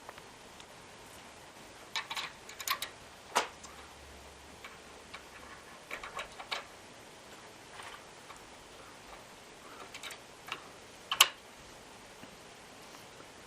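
Irregular light clicks and taps of hand tools and small metal hardware being handled, about a dozen in all, with the sharpest one near the end.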